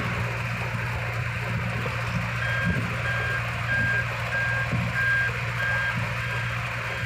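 A truck's reversing alarm beeping steadily, about one beep every half second or so, starting a couple of seconds in, over the steady hum of its diesel engine running.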